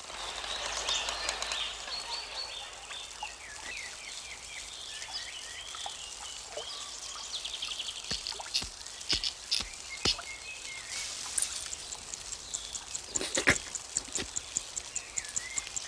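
Birds chirping in quick, twittering calls over a steady hiss, with scattered sharp clicks and a few louder knocks near the end.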